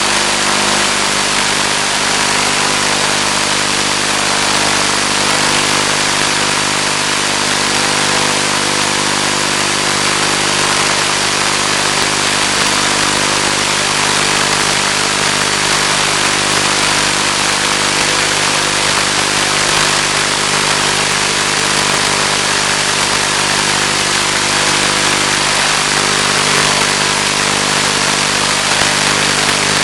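Steady, loud static hiss with several constant humming tones through it, as heard on the audio channel of an analog 1.3 GHz FPV video link.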